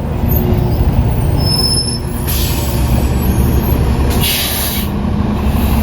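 Large tour bus's engine idling with a low rumble, and two short hisses of compressed air released from its air brakes, about two seconds in and again about four seconds in.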